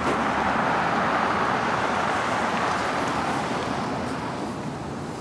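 Road traffic noise from a passing vehicle: a steady rush that slowly fades toward the end.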